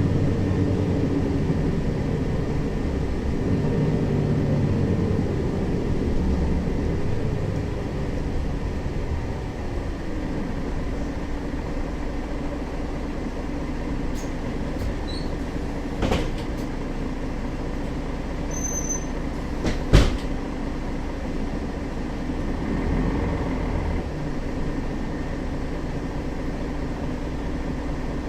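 Inside a Mercedes-Benz Citaro facelift city bus on the move: the diesel engine's pitch rises and falls for the first several seconds, then settles into a steadier rolling rumble. A small click comes about 16 seconds in and a sharp knock, the loudest sound, about 20 seconds in.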